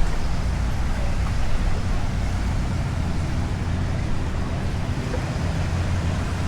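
Steady low engine rumble under an even wash of outdoor noise, like passing road traffic.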